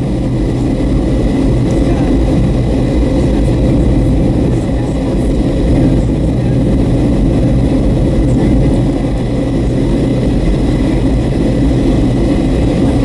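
Steady cabin noise of a Boeing 757-300 airliner on approach: a loud, even low rush of engines and airflow, with faint high steady tones above it.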